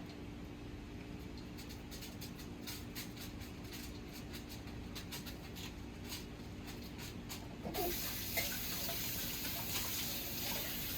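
Light scattered clicks and rustles of handling, then about three-quarters of the way through a tap is turned on and water runs steadily into a sink.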